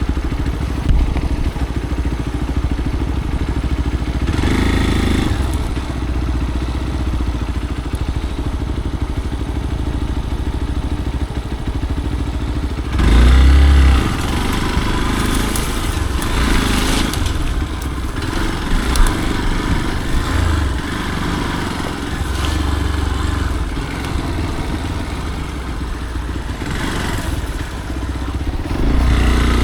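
Motorcycle engine running on a dirt trail, rising and falling as the throttle is worked, with a loud surge about halfway through and a few sharp knocks.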